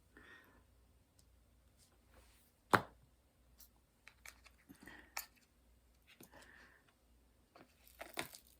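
Scattered small clicks and soft handling noises, with one sharp click just under three seconds in.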